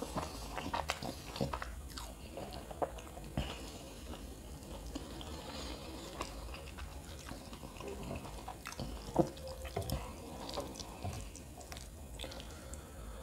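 Close-up chewing of kottu roti (chopped flatbread) eaten by hand, with scattered wet mouth clicks and fingers working through the food on the plate; one sharper click about nine seconds in.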